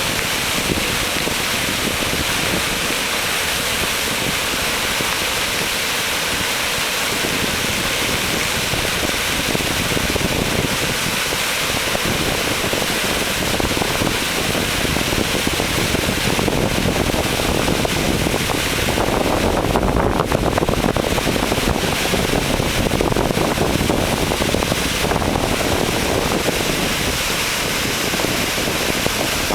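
Dam floodwater discharge: a steady, loud rush of released water, growing fuller in its low end partway through.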